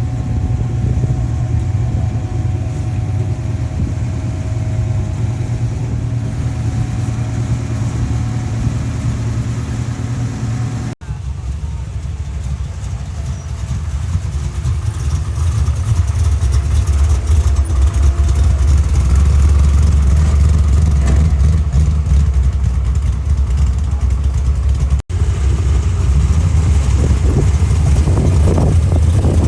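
Classic muscle-car engines idling with a steady low note that grows louder about halfway through. The sound breaks off abruptly twice, about 11 and 25 seconds in.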